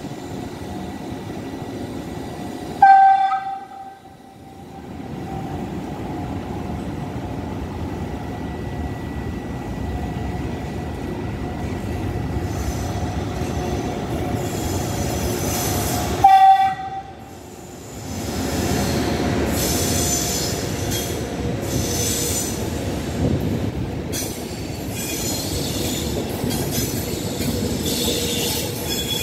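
Passenger train rolling through the station: two short, loud horn blasts, about three seconds in and again about sixteen seconds in. From about halfway, the wheels rumble and squeal as the coaches roll past.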